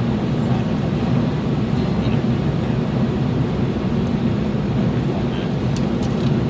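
Steady, unchanging rumble of a car driving.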